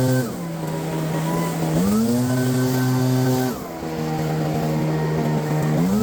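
Small two-stroke engine of a garden power tool, running at high revs and eased off twice, its pitch dropping and climbing back each time.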